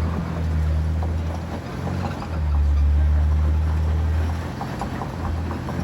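Off-road rig's engine running at low speed while crawling a rocky trail, heard from inside the cab: a low steady hum that dips briefly about two seconds in and again near the end, with light rattling over it.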